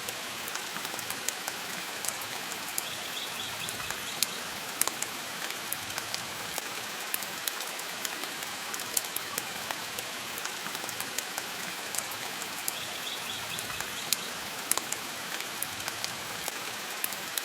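Steady rain hiss mixed with a crackling log fire, with frequent short, sharp pops and clicks scattered irregularly throughout.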